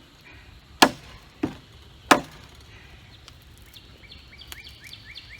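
Three sharp cracks of dry wooden sticks, about two-thirds of a second apart, as small sticks are broken up for rocket-stove fuel. A faint, steady chirping starts up near the end.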